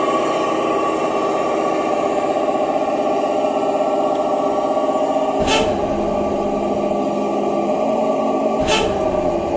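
1/10-scale RC Scania truck running with a steady drone made of several tones. Two short, sharp hisses come about three seconds apart, the first a little past halfway.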